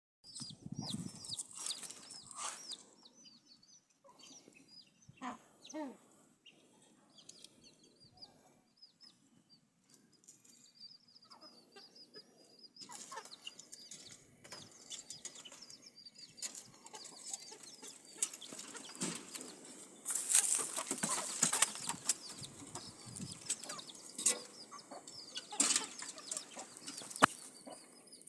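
A flock of chickens, with many short high peeps and clucks. Bursts of wing flapping and rustling are loudest about twenty seconds in and again near the end.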